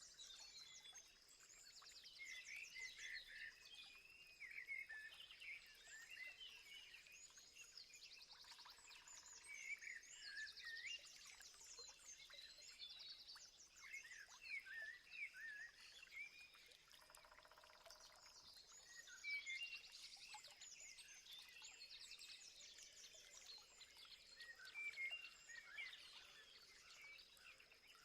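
Faint chorus of several birds singing and calling, overlapping chirps, whistles and rapid trills, over a steady thin high-pitched tone.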